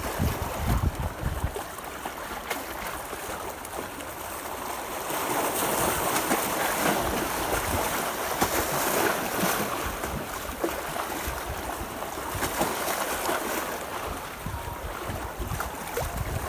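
Strong wind on the microphone and sea water washing against a breakwater: a steady hiss with low rumbling gusts near the start, swelling louder for a few seconds in the middle.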